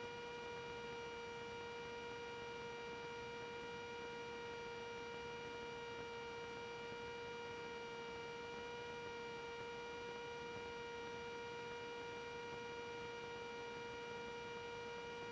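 Faint, steady, even-pitched hum with fainter higher tones above it, the cockpit drone of a Cessna 310 twin in climb as heard through the recorded intercom audio.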